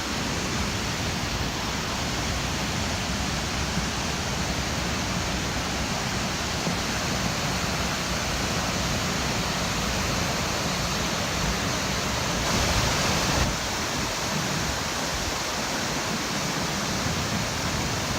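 Steady rushing of a waterfall in spate, running high with a lot of water, with one brief louder swell about two-thirds of the way through.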